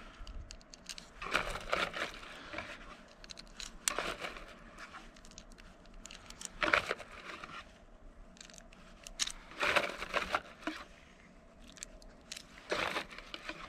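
Small .22 LR cartridges being pushed one at a time into a Glock 44 magazine: short clicks and scrapes every second or two.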